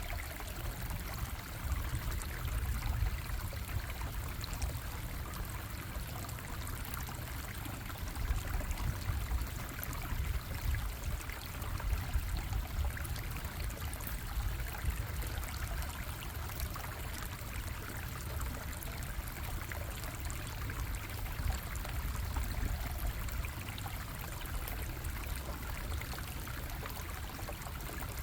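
Bubbling stream, water running and splashing steadily over rocks, with a low rumble underneath.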